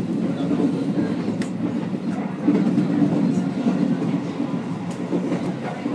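A passenger train running, heard from inside the carriage: a steady low rumble with a few sharp clicks scattered through it.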